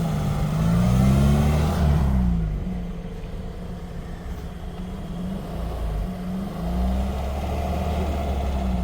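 Off-road vehicle engine revving up and down as it pulls away, then running lower and steadier from about two seconds in.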